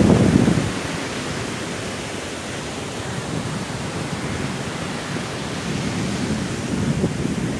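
Steady rushing noise of sea surf and strong wind. A loud low rumble dies away in the first second, and low rumbling builds again near the end.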